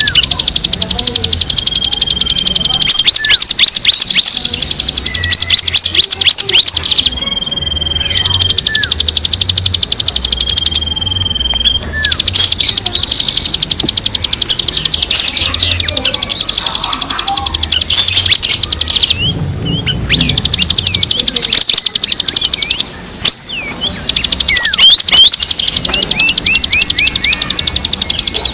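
Recorded songbird calls played loud and continuously: a fast, high chattering trill with repeated groups of quick downward-sweeping chirps and a held high whistle note. Several abrupt breaks, such as near 7, 11, 19 and 23 seconds, sound like edits in a looped bird-lure track.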